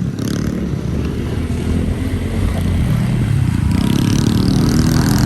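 A small motorbike or scooter engine running as the rider sets off. It gets louder, with a rising rev and a rushing hiss, from about three and a half seconds in.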